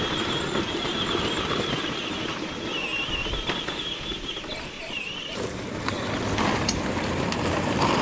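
Children's ride-on toy tractor driving over the ground: a high wavering whine for about five seconds, then a louder rough rolling noise with scattered clicks.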